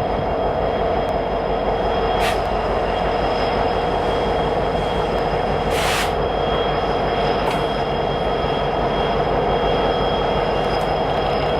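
Freight train rolling past: a steady rumble of wheels on rail with sustained high-pitched wheel squeal and a few sharp clicks, the loudest about six seconds in.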